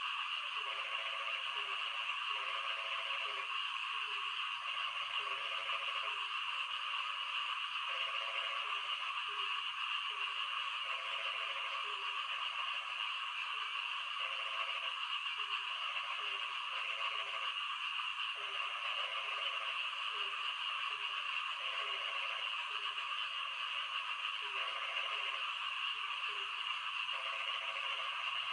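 Frogs croaking in the rain: short croaks repeat roughly once a second over a steady hiss of rainfall.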